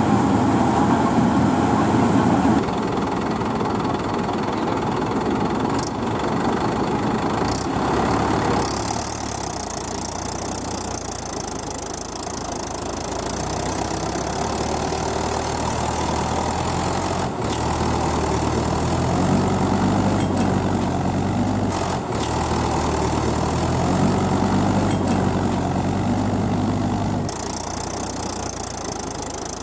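Diesel engine of farm machinery running steadily. Its sound changes abruptly about three seconds in, about nine seconds in and again near the end, as between separate recordings.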